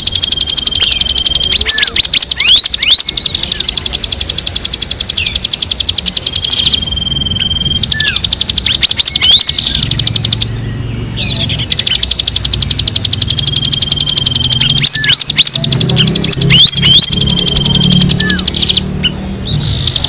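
Recorded wild birdsong used as a bird lure: a fast, high trill that pauses briefly a few times, overlaid with short rising whistles and a held high note.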